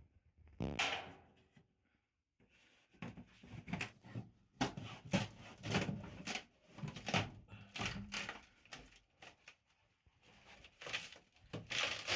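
Irregular knocking, scraping and tearing of interior van panels and tools being worked loose by hand in a small enclosed space, with a brief pause about two seconds in.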